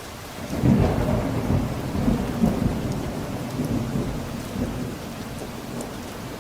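Steady rain with a roll of thunder. The thunder rises about half a second in, is loudest within the first second, rumbles on in several swells and fades away over the next few seconds.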